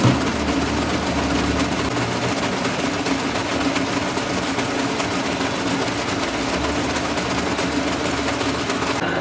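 Workshop machinery running steadily: a dense mechanical noise over a steady low hum, typical of a metal lathe at work. The sound changes abruptly near the end, when the hiss thins out.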